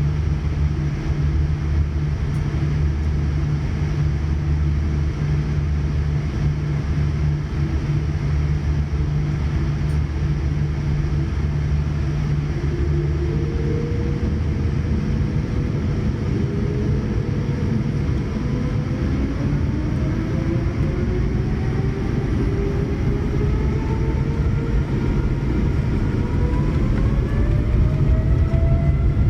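Inside the cabin of a Boeing 787-9: a steady low rumble and hum, then from about halfway a whine of several tones that climbs steadily in pitch as the engines spool up and the airliner accelerates for takeoff.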